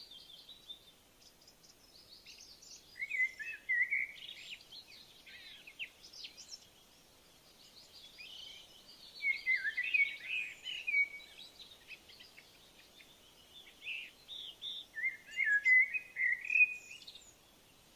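A songbird singing three phrases of quick, varied chirping notes, each a few seconds long and about six seconds apart, over a faint steady outdoor background.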